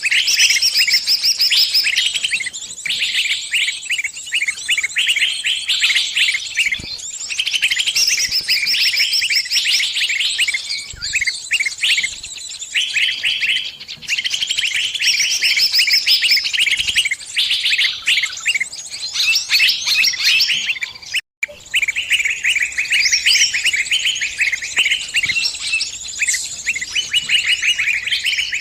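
Small birds' high, rapid chirping in a dense, unbroken chatter: the distress calls of a trapped bird calling to its flockmates for help. The sound cuts out for a split second about two-thirds of the way through.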